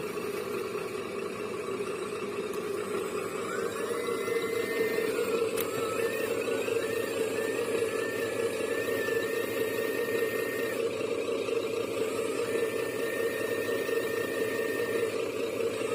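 Small electric motor of a 1/14-scale RC construction model running with a steady whirr. A thin whine rises in pitch about three and a half seconds in, then holds, with small dips and steps as the load changes.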